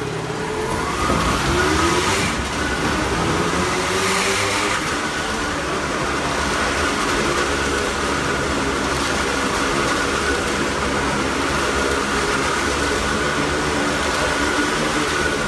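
Harley-Davidson motorcycle engine revving up about a second in, then running steadily at speed as the bike circles the wooden wall of a wall-of-death drum.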